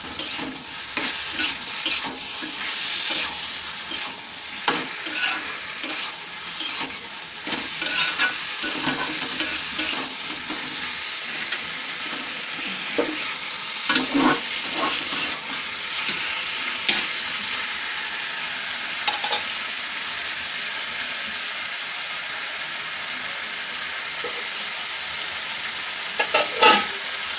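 Chicken pieces sizzling in spice paste in a kadai, stirred with a spatula that scrapes and clacks against the pan. The stirring strokes stop about two-thirds of the way through, leaving a steady sizzle, and a few more knocks come near the end. This is the kosha stage, where the chicken is browned in the masala.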